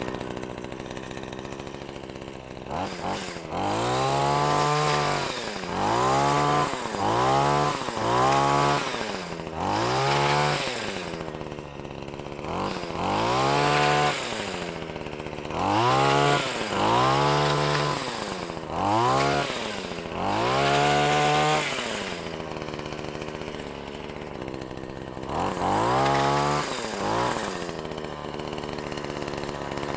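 Small gas engine of a Wild Badger multi-tool with the hedge trimmer attachment, idling and revved up again and again in bursts of a second or two, about eleven times, while cutting overhead branches. There is a longer stretch at idle before a last rev near the end.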